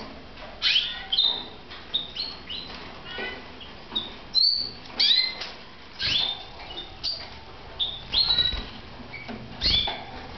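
Red mosaic canaries chirping: short, sharp calls that sweep quickly up or down, repeated every half second to a second, with a soft thump near the end.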